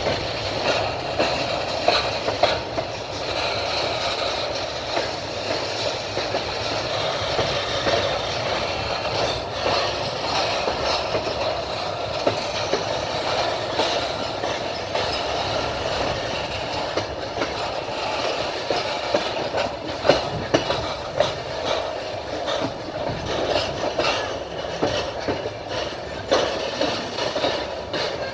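Train wheels rolling along the track, with scattered clacks over rail joints on top of a steady rumble.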